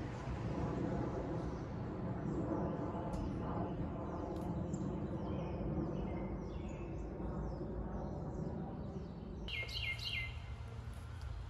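Songbirds chirping over a steady outdoor hiss and rumble. Near the end, a few louder, quick bird chirps stand out.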